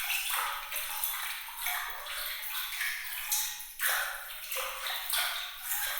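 Water sound effect meant to sound glittering: an irregular run of small splashes and trickling drops with bright, ping-like glints, all high and light with no low end.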